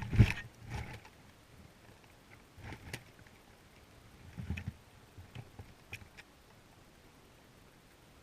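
Irregular rustling and knocks from a player moving with gear, loudest just after the start, then scattered softer clicks and thuds.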